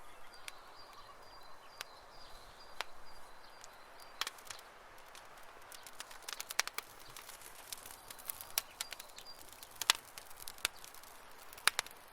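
Campfire crackling: irregular sharp pops and snaps of burning wood over a soft hiss, with a few louder pops near the end. A faint, thin high whistle runs under the crackle for most of the time.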